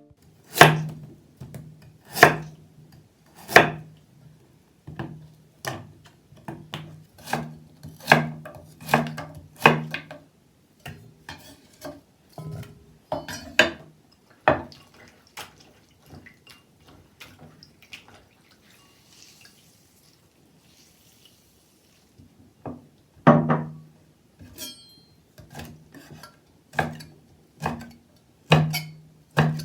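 Knife chopping on a wooden cutting board: slow, uneven strokes, each a sharp knock with a low ring from the board. The chopping stops for several seconds in the middle, then starts again.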